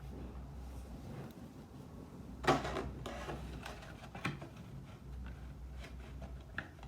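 Trading cards being handled and sorted into piles on a table: soft rustles and light taps, with a brief louder one about two and a half seconds in.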